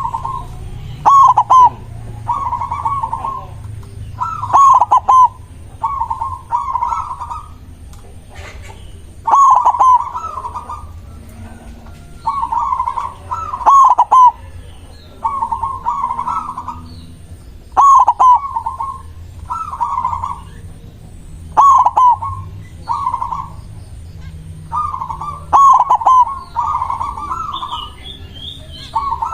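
A white zebra dove (perkutut putih) singing its song over and over: short phrases of rapid staccato coos, each opening with sharp clicking notes, repeated every second or two.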